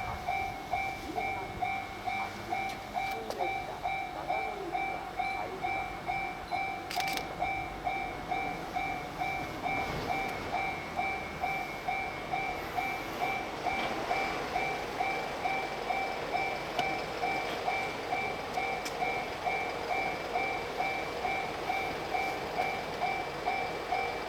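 Railway level-crossing warning bell ringing steadily at about two strikes a second. The fading rumble of a train runs underneath in the first few seconds.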